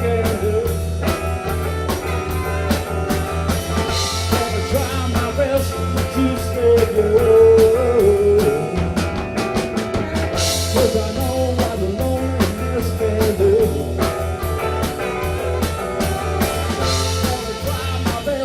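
A live band playing an instrumental passage: a guitar line over bass and a drum kit keeping a steady beat, with a cymbal crash three times.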